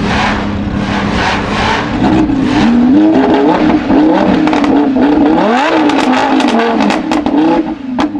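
Lamborghini Huracán LP610-4's naturally aspirated V10 through a Frequency Intelligent (Fi) exhaust, idling steadily, then blipped again and again from about two seconds in, its pitch rising and falling with each rev, one rev climbing higher about midway. Near the end a rapid series of crackles and pops on the overrun.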